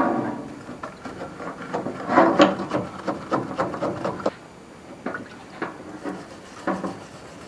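Scraping and brushing carbon off an engine piston from a Holden 173 six, the carbon softened by a diesel soak. It comes in irregular strokes with a few short knocks, loudest about two seconds in.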